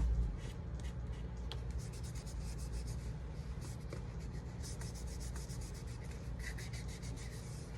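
Cardstock being handled and rubbed with the hands as a paper card is positioned and pressed down, with bursts of short scratchy paper crackles.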